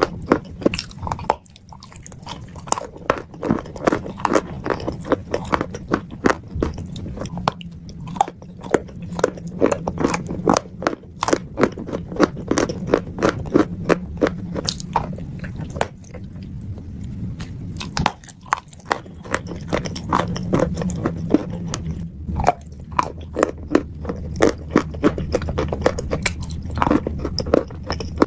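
Close-up chewing and biting of wet chalk mixed into a paste: a continuous run of sharp, crackly wet crunches, several a second, with short lulls between bites.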